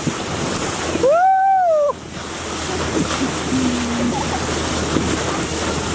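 Wind and sea noise on the microphone out on the water. About a second in, one loud drawn-out vocal call rises and falls in pitch.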